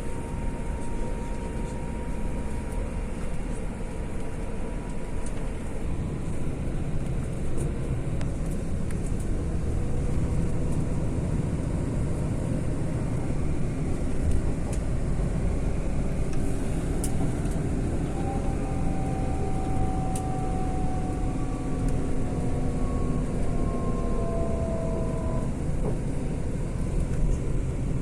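Steady low rumble of a vehicle running. Faint tones slide slowly down in pitch in the second half.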